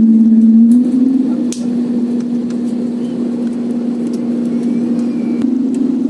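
Airliner engines heard from inside the cabin: a steady drone with one strong hum, easing slightly about a second in. A few faint clicks sound over it.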